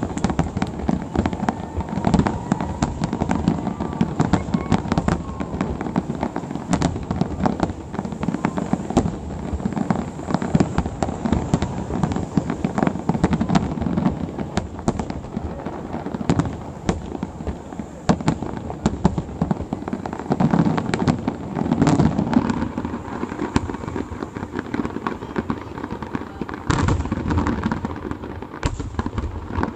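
Fireworks finale barrage: many aerial shells bursting in rapid, overlapping succession, a dense unbroken run of booms and bangs with no pause.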